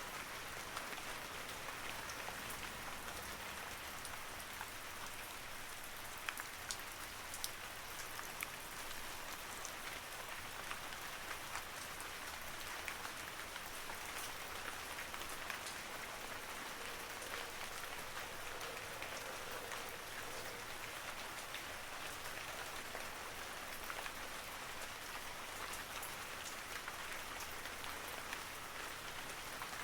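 Steady rain falling: an even hiss with scattered sharper drop ticks, a few of them louder in a cluster about six to eight seconds in.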